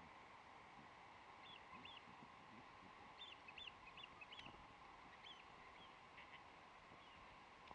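Faint calls of distant birds: a scattering of short, high chirping notes, most of them in the middle of the clip, over near silence with a faint steady hum.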